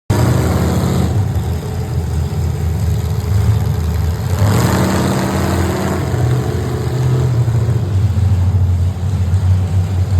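Race car engines running, with one revving up about four and a half seconds in and holding for a couple of seconds.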